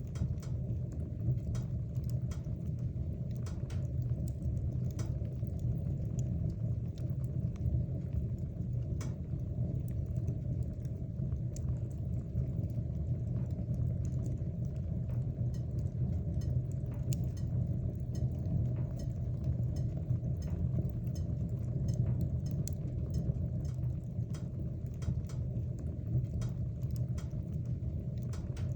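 Wood fire burning in a fireplace: a steady low rumble of flames with frequent small crackles and pops scattered irregularly throughout.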